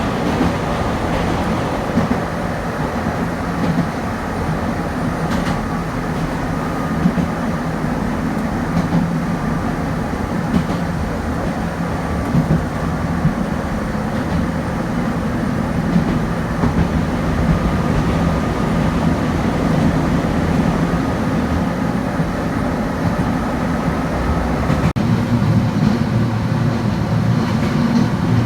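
Kobe Electric Railway train running along the track: a steady rumble with scattered clicks from the wheels over rail joints. The sound changes abruptly about 25 seconds in.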